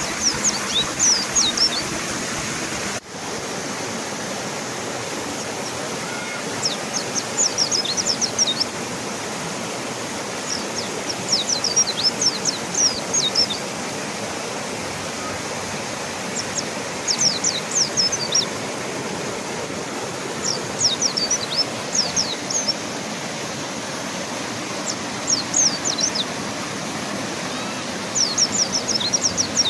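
Rushing river water, steady throughout, with a mountain white-eye singing short phrases of quick high chirps every four or five seconds. The water sound dips briefly once about three seconds in.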